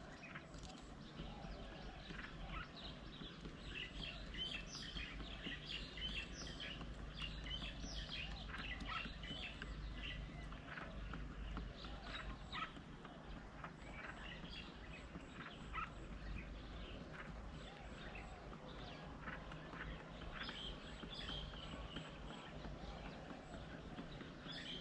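Wild birds chirping and calling: many short chirps, busiest in the first half and again near the end, over a low steady background rumble.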